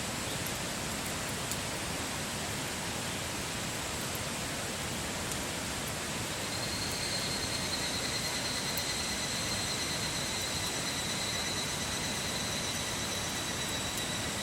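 Wood fire burning with a steady hiss and a few faint crackles. About six seconds in, a thin high whistle joins and holds steady.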